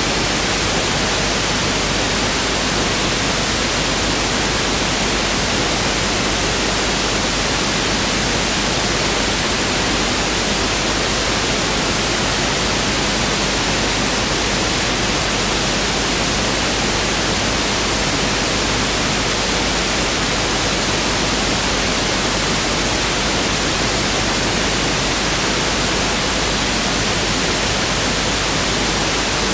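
Pink noise test signal (1/f noise): a steady, even hiss spread across the whole audible range, unchanging throughout.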